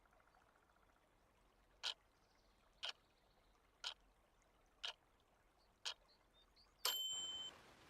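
Pomodoro timer counting down with five short ticks one second apart, then a bright chime about seven seconds in that signals the end of the break and the start of a focus session. A steady rain-sound hiss comes in with the chime.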